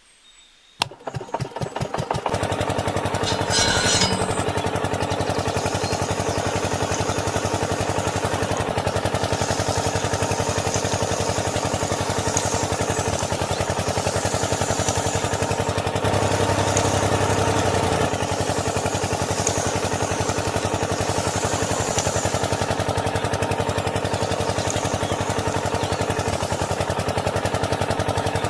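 A small engine starting: a click, then firing pulses that speed up over about a second and settle into steady running, which carries on unchanged.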